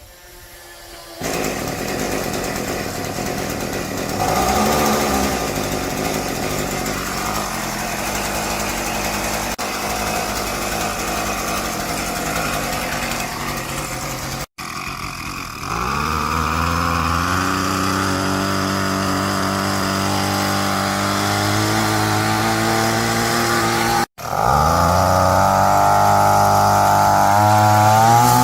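A small motor running loudly, cut into three stretches. After each of the last two cuts it spins up in a rising whine and then holds steady.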